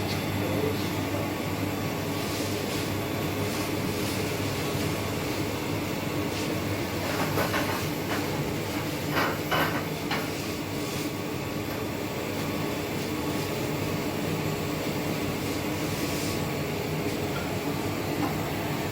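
Steady machine hum from lab equipment, with a brief cluster of clicks and rattles about halfway through as instrument parts are handled.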